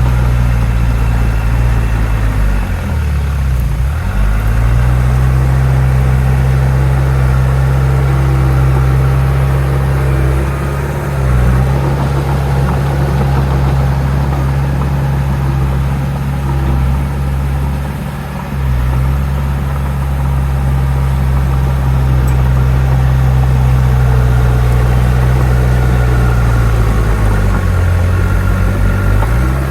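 Diesel engine of a Shantui DH17C2 bulldozer running steadily while pushing soil, its pitch sagging briefly and recovering about four times as the load comes on and eases.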